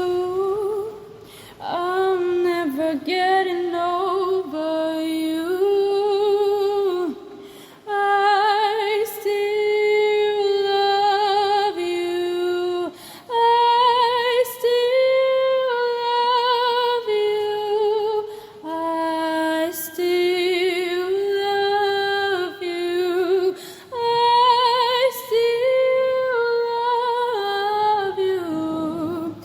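A woman singing solo a cappella with heavy reverb: long held notes with vibrato, in melodic phrases of a few seconds separated by short breaths.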